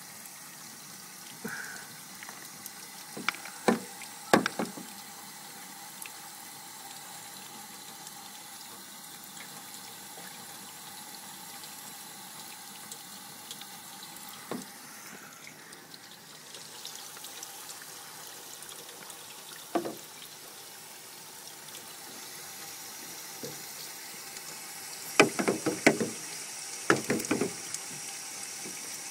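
Water from a leak running steadily, with a few sharp knocks scattered through and a quick series of them near the end.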